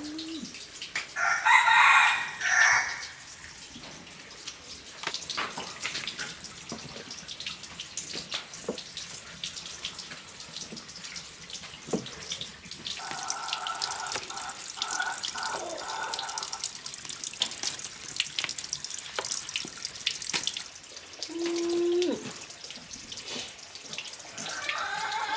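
Water running and splashing, with scattered small clicks and knocks. A rooster crows loudly about a second in, and another crow sounds more faintly around the middle.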